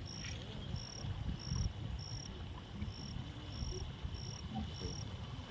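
A cricket chirping steadily, short high chirps repeating about every half second or so, over a low rumbling background noise.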